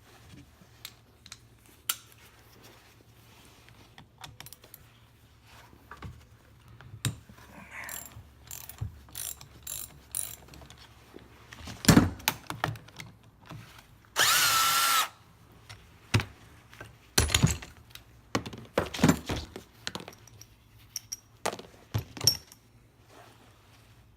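Tools working on the metal parts of a semi-hermetic compressor: scattered clicks, knocks and rattles, with one loud whirr of a power tool lasting about a second, a little past halfway through.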